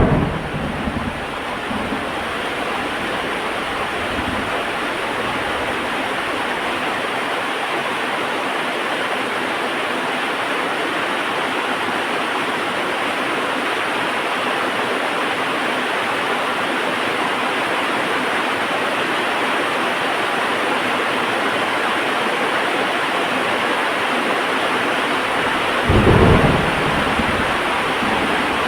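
Heavy rain falling steadily in a thunderstorm, with a low rumble of thunder at the start that fades over a couple of seconds and another short rumble near the end.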